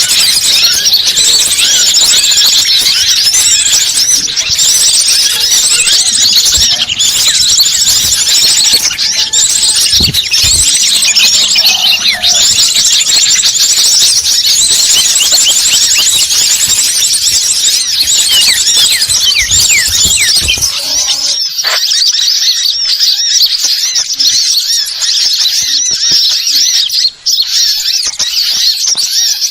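Small birds chirping and twittering loudly and continuously, many rapid high-pitched notes overlapping: a bird-lure call (suara pikat) meant to draw in wild birds. About two-thirds of the way through, the low background noise drops out, leaving only the chirping.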